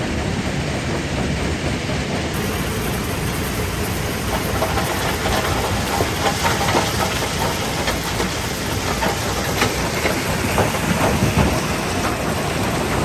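Rock crushing machinery, a jaw crusher, running: a steady low mechanical rumble with irregular clattering knocks of stone on metal, which grow more frequent from about four seconds in.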